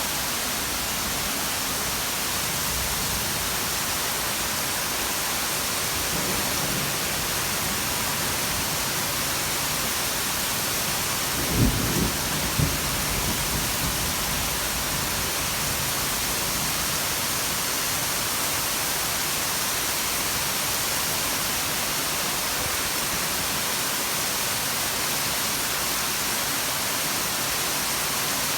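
Very heavy rain pouring down in a steady hiss, with a short low rumble of thunder about twelve seconds in.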